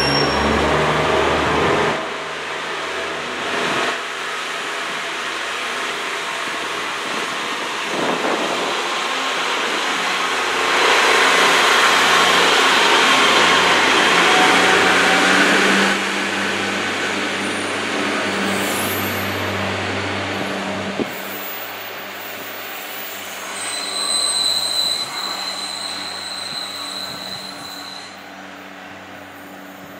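Class 143 Pacer diesel multiple unit on the move: a steady low diesel drone under broad rail and wheel rumble, loudest around the middle. Late on, a high wheel squeal rings for about two seconds, typical of the unit's rigid four-wheel underframe on curved track, before the sound fades.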